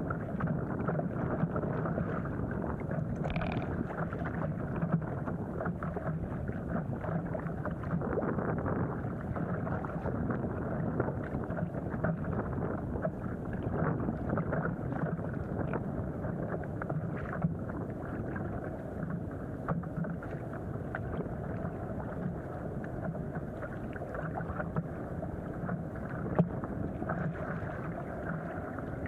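Water sloshing and slapping against an inflatable stand-up paddleboard as it is paddled through wind-chopped water, with wind noise on the microphone. The sound is a steady, dull wash with many small irregular splashes.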